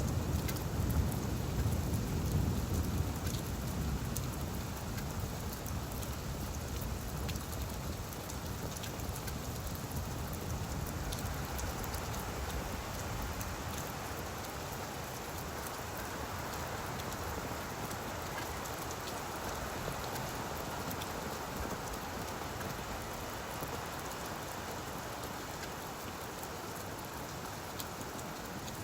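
Steady rain falling on leaves, a dense even patter with many small drop ticks. A low rumble sits under the rain for the first few seconds and fades away.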